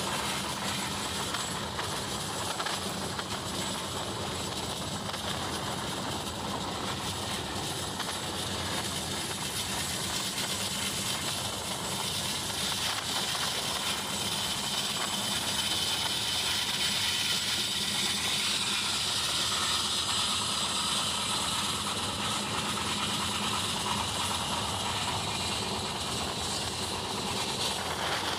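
Indian Railways express train running at speed, heard from aboard the coach: a steady rumble of wheels on rails with rushing air.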